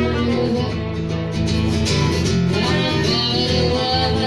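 Acoustic guitar strummed steadily with a violin playing over it, an instrumental passage of a live folk-rock song between sung lines.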